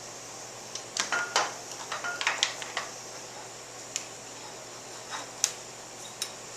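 Clicks and knocks of metal motorcycle fork parts and hand tools being handled. A quick cluster of them comes about a second in, then a few single clicks spaced out toward the end.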